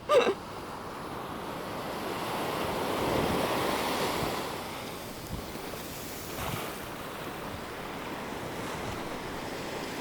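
Small waves washing onto a beach, the wash swelling about three to four seconds in, with wind on the microphone.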